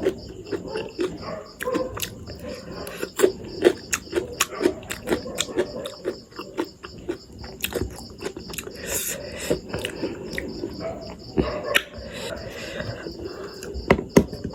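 Close-up eating sounds of a person eating spicy instant noodles: chewing, with frequent sharp irregular mouth clicks and smacks.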